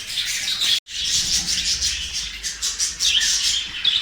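A flock of budgerigars chattering and chirping continuously in a colony aviary, broken by a brief moment of silence a little under a second in.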